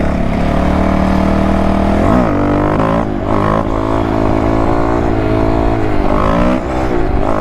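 Dirt bike engine running hard. Its pitch dips and climbs again about two seconds in, then swings up and down several times near the end as the throttle is opened and closed.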